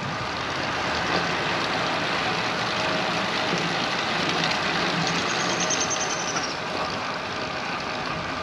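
Steady rush of wind and road noise while riding a road bicycle, with a faint thin high whine for a second or so about five seconds in.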